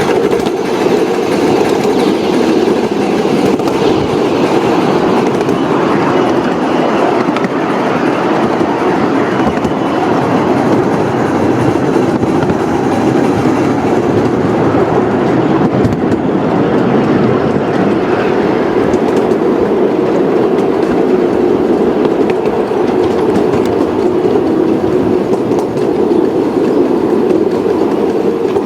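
Model train running steadily along the layout's track.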